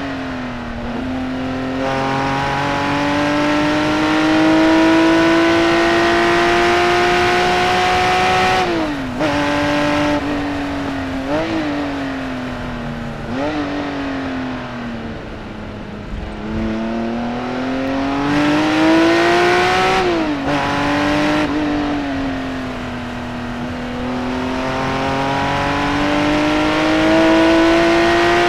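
Naturally aspirated flat-six engine of a Singer-reimagined Porsche 911 at full throttle on track. The revs climb through long pulls and fall away suddenly at each gear change. About a third of the way in, the revs drop with a few short, sharp blips before climbing again.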